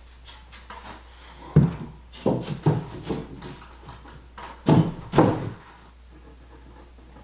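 A series of wooden knocks and clunks, about six of them, as pine boards are handled and set down. The loudest come about a second and a half in and near five seconds in.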